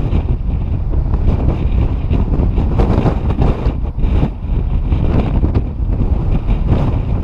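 Strong wind buffeting the microphone: a loud, low rumble that swells and dips with the gusts.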